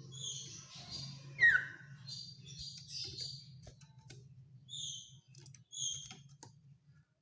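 Common iora (cipoh) calling: short high notes repeated several times, with one louder note sliding down in pitch about one and a half seconds in. A few faint clicks and a steady low hum run underneath.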